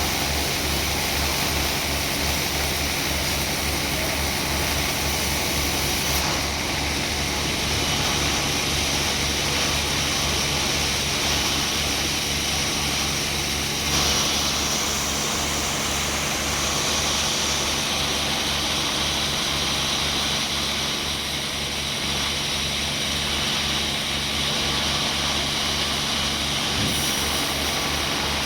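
Sawmill machinery running: a steady engine drone under the hiss of the saw, the hiss growing brighter about halfway through.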